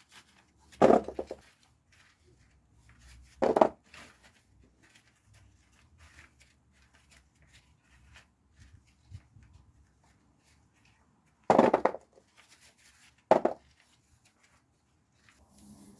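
Small potatoes being sorted by hand: faint scattered clicks as they knock together, with four louder, short clatters as handfuls are dropped into a container, two near the start and two near the end.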